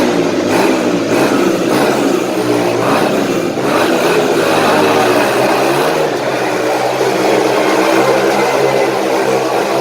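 Dirt bike engines revving continuously as the bikes circle inside a round cage, the engine pitch rising and falling without a break.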